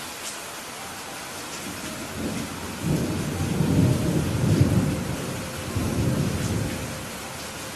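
Steady rain hissing, with a roll of thunder that rumbles up about two seconds in, peaks in the middle and dies away near the end.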